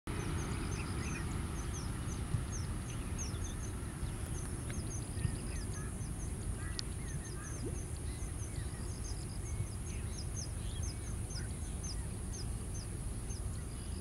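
Zitting cisticola's sharp, high 'zit' notes repeated rapidly in runs, over a steady high insect drone and a low rumble, with a few fainter bird calls lower down.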